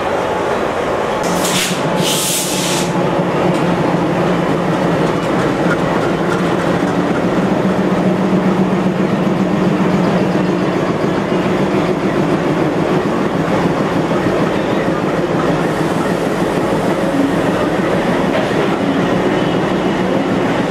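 Diesel-hauled passenger train at close range, a steady engine note under continuous running noise, as the train moves off. Two short hissing bursts come about one and two seconds in.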